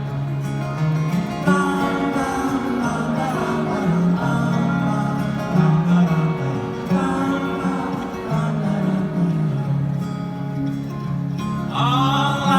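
Live band playing an instrumental passage between verses, with acoustic guitar and a moving bass line.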